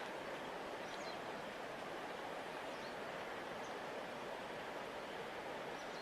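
Steady rush of a large river flowing past its bank, with a few faint, short high chirps now and then.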